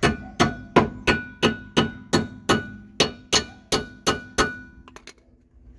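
A hammer striking metal, about a dozen ringing blows at an even pace of roughly three a second, stopping near the end, followed by a couple of faint clicks.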